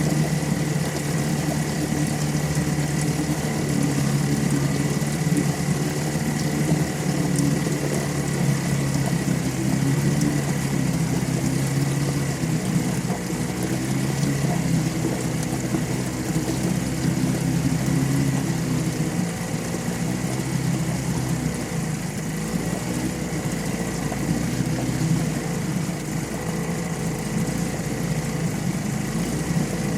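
A 9.9 HP Johnson/Evinrude two-stroke outboard motor running steadily at idle, its speed wavering slightly in the second half.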